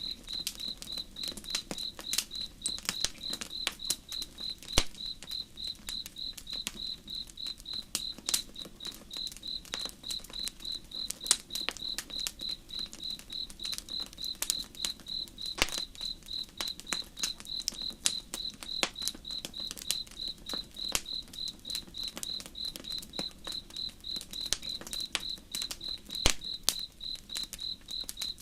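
Campfire crackling with irregular sharp pops, over an insect, most likely a cricket, chirping steadily in an even rhythm.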